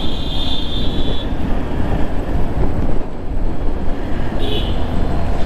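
Motorcycle on the move: steady rush of wind and engine and road noise. A thin high-pitched tone sounds until about a second in, and again briefly near the end.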